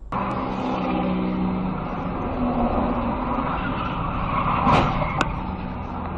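Car driving on the road: a steady rush of road and engine noise with a low hum. A short swell and then a sharp click come near the end.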